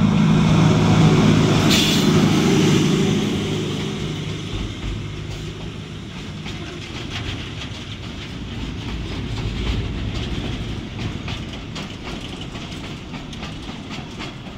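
ZCU-20 diesel-electric locomotive passing close by, its engine drone loudest in the first few seconds and fading out by about four seconds in. Then the long freight train's container flats and box wagons roll past with a steady rumble and rapid clickety-clack of wheels over the rails.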